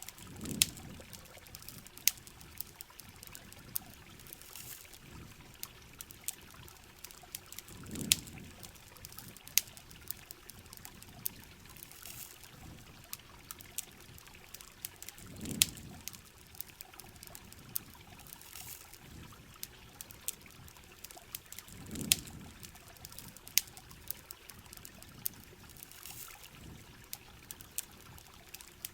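Steady rain with the sharp pops and crackles of a campfire, and a low whoosh that swells about every seven seconds.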